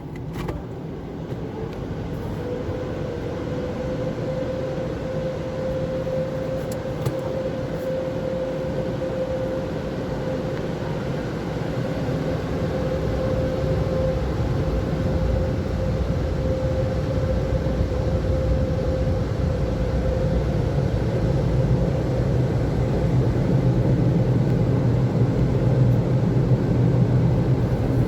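Car wash air dryers blowing steadily, with a fan whine held through most of it, getting louder toward the end.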